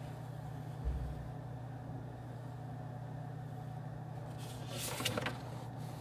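Office room ambience: a steady low hum, with a soft low thump about a second in and a brief rustling noise with a few sharp clicks around five seconds in.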